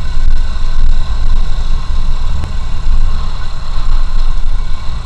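Motorcycle running at road speed, heavy wind rumbling on the microphone.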